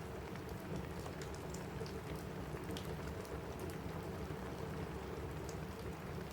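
Steady rain on a cabin roof, with scattered sharp crackles and pops from a wood fire in a fireplace.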